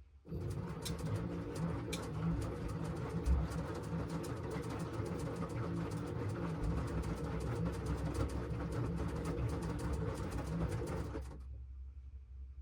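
LG front-loading washing machine drum turning during the wash cycle: a low motor hum with the churning of wet laundry and water. It starts just after the opening, stops about eleven seconds in, and starts up again after a short pause, as the drum turns one way, rests and turns again.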